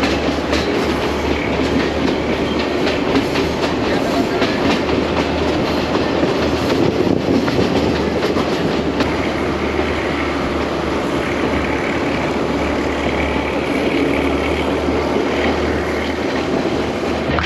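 Passenger train running at speed, the wheels clacking over the rail joints under a steady rush of wind and carriage noise, heard from an open carriage door.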